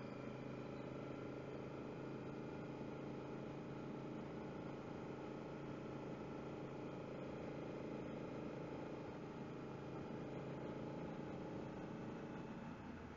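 Honda Africa Twin's parallel-twin engine running steadily at cruising speed, heard through the rider's helmet-mounted headset microphone, its pitch holding even throughout.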